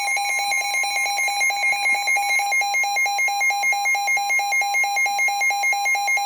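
NOAA Weather Radio's steady 1050 Hz warning alarm tone, the signal that a warning is about to be read. A receiver's rapid electronic alert beeping sounds over it.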